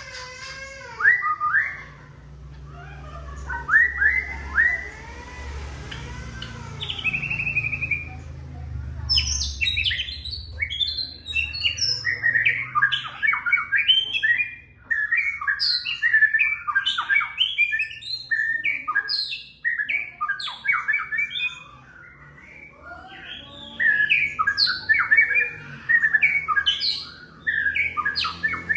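White-rumped shama singing without a break: soft whistled glides for the first several seconds, then from about nine seconds in a loud, rapid run of varied chattering and whistled notes. A low hum runs underneath.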